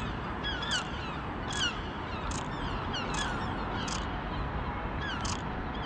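A bird calling over and over, one short, sharp call a little under once a second, each with a quick bend in pitch, over a steady background hiss.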